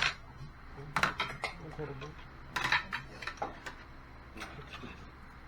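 Cutlery clinking against dishes as people eat, a string of short, sharp clinks at irregular intervals.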